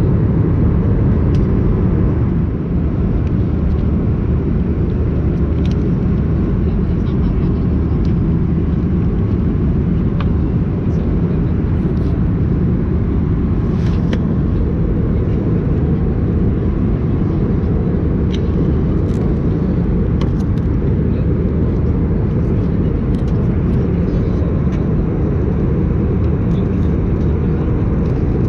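Steady cabin noise inside an Airbus A320-232 in flight: an even, loud rushing drone from its IAE V2500 engines and the airflow over the fuselage, heaviest in the low range, with a few faint ticks over it.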